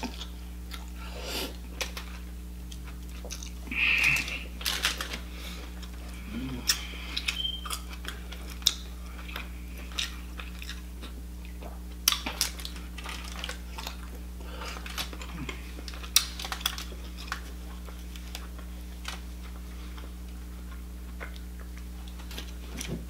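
Close-miked chewing of soft lobster meat, wet and irregular, with scattered sharp clicks from the mouth and fingers. A steady low hum runs underneath.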